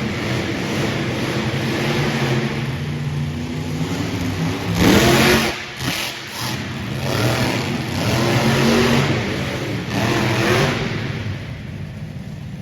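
Monster truck engines revving hard during a two-truck race, their pitch rising and falling as the throttles open and close. A loud burst of noise comes about five seconds in.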